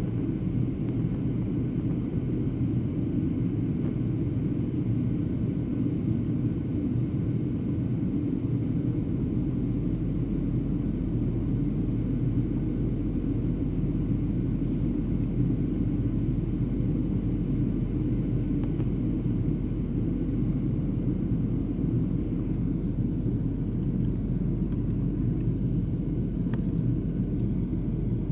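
Steady low rumble of engines and airflow heard inside a passenger airliner's cabin in flight.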